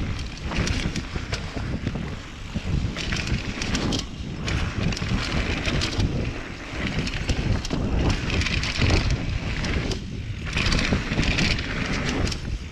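Mountain bike riding down a dirt trail, heard from a helmet camera: wind buffeting the microphone, tyres hissing over dirt and foliage in repeated surges, with light clicks and rattles from the bike.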